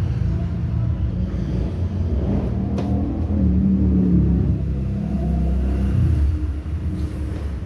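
Motor vehicle engine running with a low rumble, its pitch rising a little in the middle and dropping back about six seconds in. A single short click just under three seconds in.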